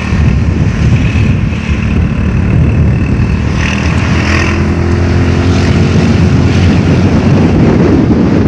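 Strong windstorm gusts buffeting the microphone: a loud, heavy, low rumbling roar that comes in abruptly and keeps up without let-up.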